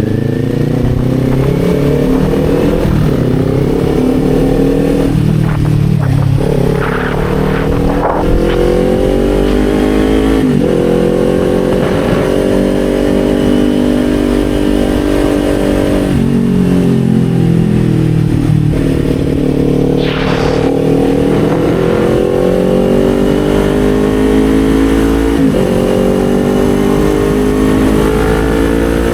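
Kawasaki Z400's parallel-twin engine under way, its pitch rising and falling with the throttle and jumping at several gear changes.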